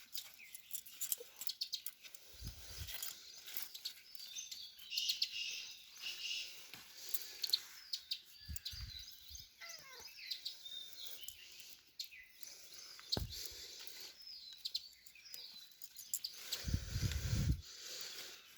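Small birds chirping and calling, many short notes with a few sliding calls. A few brief low rumbles interrupt them, the strongest near the end.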